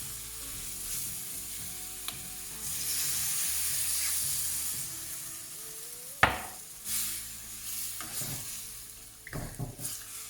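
Chicken curry sizzling in a pan. About three seconds in, a louder hiss swells for about two seconds as water is added to the hot pan. About six seconds in there is a sharp knock of the spoon on the pan, followed by stirring and scraping.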